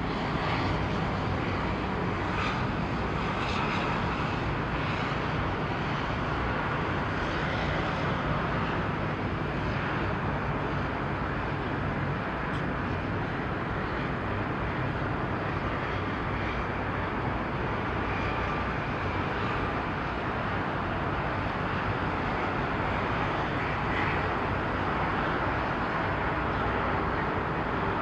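Steady mechanical rumble and hum of engines or machinery, unchanging throughout, with no distinct events.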